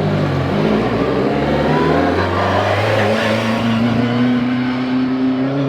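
Rally car engine running hard, its note settling and then climbing steadily through the second half as the car accelerates.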